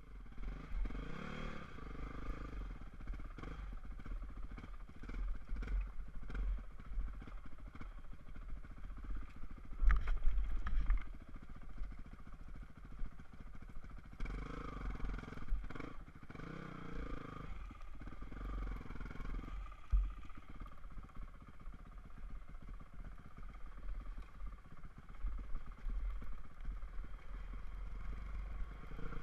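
Dirtbike engine running while riding, its revs rising and falling repeatedly, over a heavy low rumble. There is a loud burst about ten seconds in and a sharp knock about twenty seconds in.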